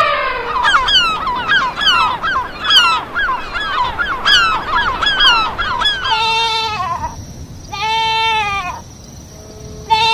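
Geese honking, many short calls overlapping quickly for about six seconds. Then a goat bleats three times in long, separate calls.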